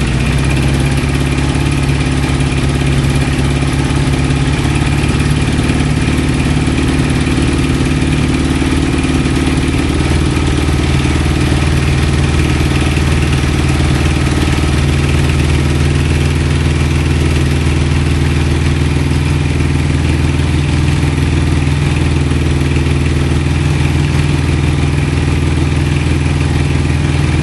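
CJ750 motorcycle's flat-twin engine idling steadily on choke, its carburettors not yet set right: it will only keep running with the choke on.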